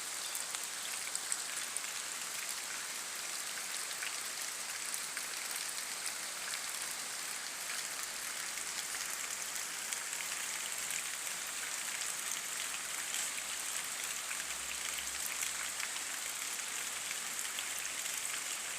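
Steady heavy rain: a constant hiss of falling rain, thick with the patter of countless drops hitting surfaces.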